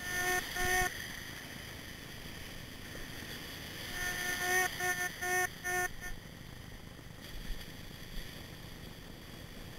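Minelab Excalibur metal detector giving short, low target beeps: two in the first second, then a quick run of four between about four and six seconds in. A steady background hiss runs underneath.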